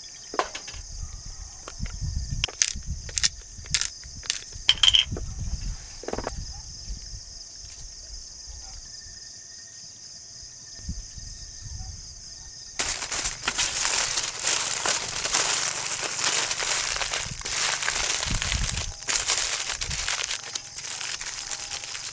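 Aluminium foil and parchment paper crinkling as a food packet is folded and wrapped, dense and continuous from about halfway through. Before that, a scatter of sharp clicks and taps.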